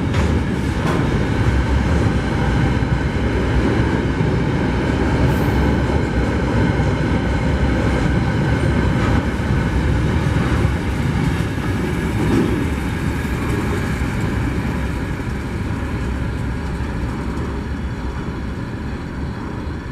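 Empty coal freight train rolling past, its wagons' wheels rumbling and clattering over the rails, fading slowly toward the end.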